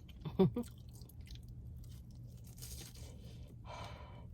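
A person chewing a mouthful of fried fish with coleslaw, with soft crunching of the batter. A brief hum or murmur comes about half a second in.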